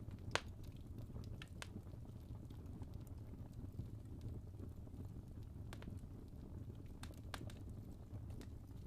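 Wood fire burning in a fireplace: a steady low rumble of flames with scattered sharp crackles and pops from the burning logs, the loudest pop about half a second in.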